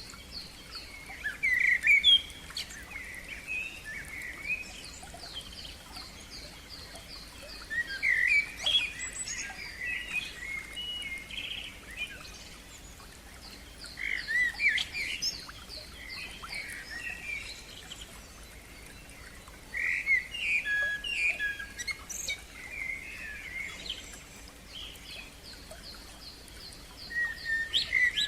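Songbirds singing: one bird gives loud, varied song phrases about every six seconds, while another keeps up a fast series of short repeated high notes between them.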